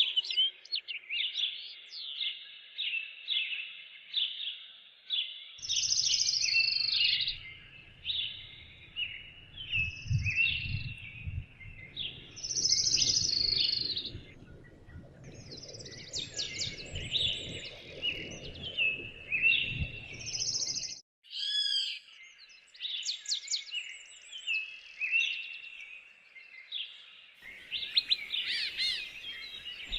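Several songbirds singing and chirping together in quick, overlapping calls and trills, with a low rumble underneath through the middle stretch. The sound drops out for a moment about two-thirds of the way through, then the birdsong carries on.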